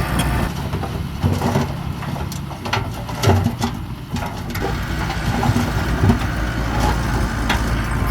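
Diesel engine of heavy earthmoving machinery running, with several sharp metallic clanks and knocks between about one and four and a half seconds in. The low engine drone eases during those seconds and comes back strongly afterwards.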